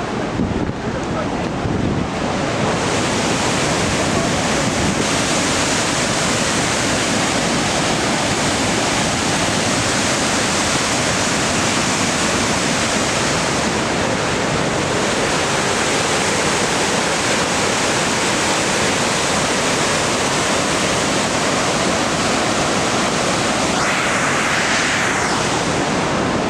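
Waterfall's falling water making a loud, steady rush with no break.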